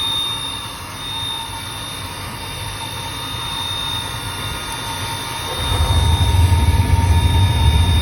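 Riello 40 F5 oil burner running with a steady high-pitched squeal, which the owner suspects comes from a failing motor bearing. A louder low rumble sets in about five and a half seconds in.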